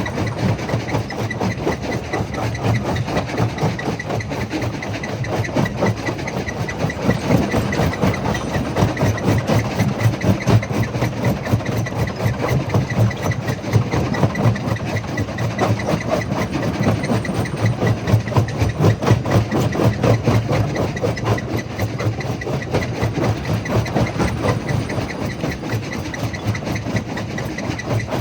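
Jaw crusher running steadily: a continuous heavy mechanical rumble with a fast, even pulsing.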